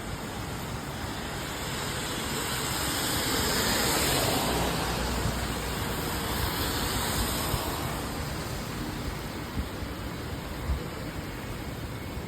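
Steady rain with a car passing on the wet road: its tyre spray swells, peaks about four seconds in and fades away by about eight seconds. A few light ticks follow near the end.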